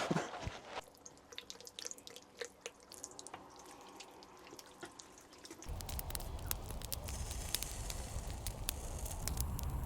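Raindrops falling as scattered single drips and taps. About halfway through, a steady low rumble joins them.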